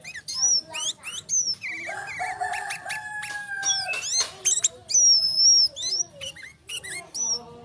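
Sooty-headed bulbul (kutilang) calling: quick, sharp chirps that rise and fall, repeated throughout. From about two seconds in, a lower held tone lasting about two seconds sounds beneath the chirps.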